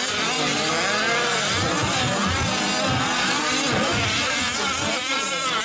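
Several 1/5-scale RC trucks' small two-stroke gasoline engines buzzing at once, their pitches rising and falling as they rev and lift off the throttle around the track.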